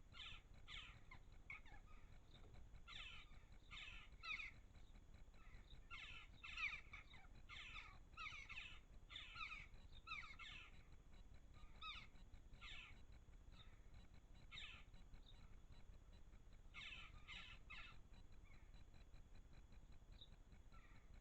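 A bird calling over and over, faint, in short runs of several calls about half a second apart, with pauses of a second or more between runs.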